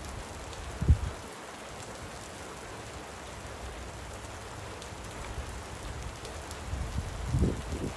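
Light rain falling steadily, an even hiss. A single low thump about a second in, and low rumbling gusts building near the end.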